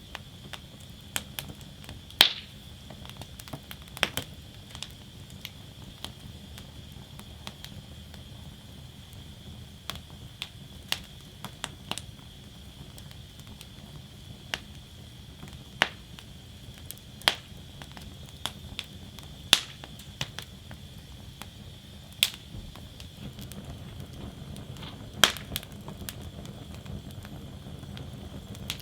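Wood fire burning in a fire basket: irregular sharp crackles and pops, a few of them louder snaps, over a steady low rumble and faint hiss.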